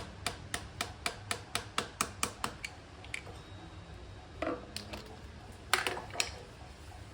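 Light hammer taps on metal on an ATV's rear axle assembly: about a dozen quick taps, roughly four a second, then a pause and a few more, sharper taps near the end, as a part is worked into place.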